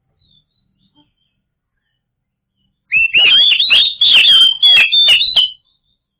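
Oriental magpie-robin (kacer) singing: after near silence, a loud phrase of rapid whistled notes mixed with sharp clicks starts about three seconds in and lasts about two and a half seconds.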